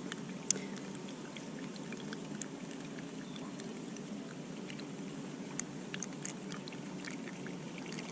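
Sugar syrup being poured through a funnel into a beehive feeder, over the steady low hum of the honeybee colony, with small scattered clicks.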